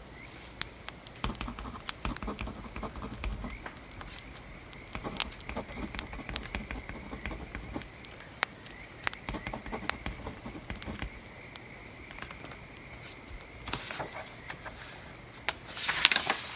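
Wood fire crackling with sharp, irregular pops, over bouts of pencil scratching on paper. A louder, brief rustle comes near the end.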